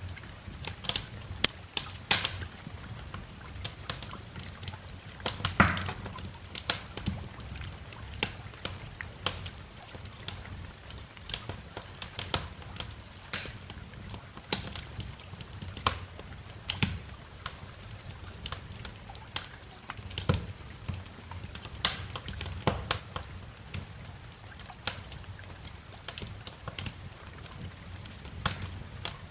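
Wood fire in a fireplace crackling: irregular sharp snaps and pops, several a second, some louder than others, over a soft steady background.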